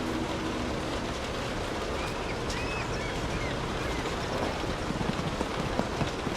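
Steady rain falling, with sharper individual drops ticking close by in the second half. A steady low hum fades out in the first second, and a few faint high chirps come about two to three seconds in.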